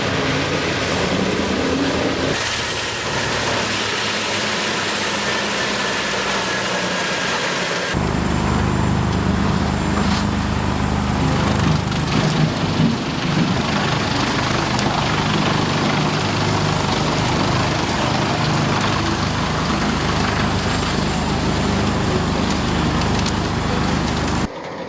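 Heavy forestry machinery running loudly. The sound changes abruptly about two seconds in and again about eight seconds in, as one machine's noise gives way to another's.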